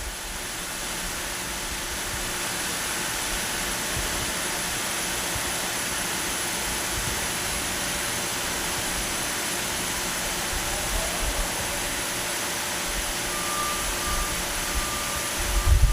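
Propane tank-top heater hissing steadily as gas flows to the burner while its control button is held down to light it; in the cold it is slow to catch.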